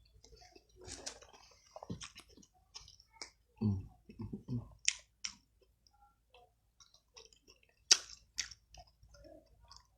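A person chewing food close to the microphone, with irregular wet mouth clicks and smacks. A cluster of low, soft mouth sounds comes about three and a half to four and a half seconds in, and the sharpest click comes about eight seconds in.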